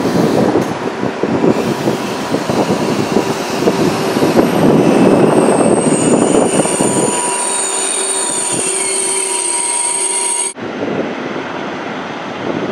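KTX high-speed train rolling past along the platform, its wheels rumbling on the track. A high-pitched metallic squeal builds over the rumble from about four seconds in. The sound breaks off sharply about ten seconds in, and the rumble then carries on.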